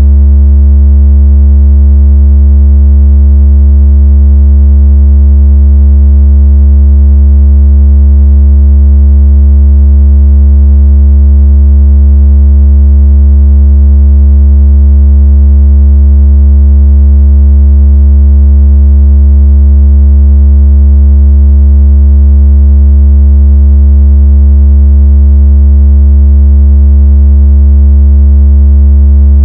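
Very deep, loud electronic tone held perfectly steady: a synthetic vibration tone made to shake water out of a phone speaker.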